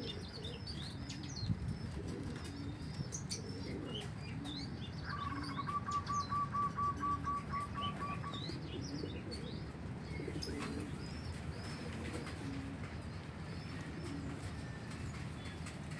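Many small birds chirping while pigeons coo and wings flap. About five seconds in, a bird gives a quick run of a dozen or so evenly spaced identical notes that lasts about three seconds.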